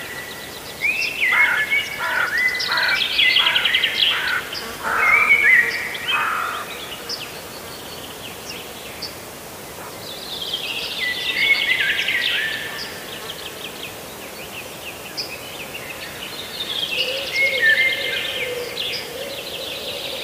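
Birds calling: a run of sharp calls sweeping down in pitch in the first few seconds, then two bouts of rapid chirping trills that step downward, about ten seconds in and again near the end.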